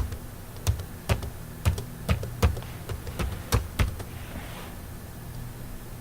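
Irregular clicking on a computer's keys or mouse, about nine sharp clicks over the first four seconds, over a steady low electrical hum; then only the hum.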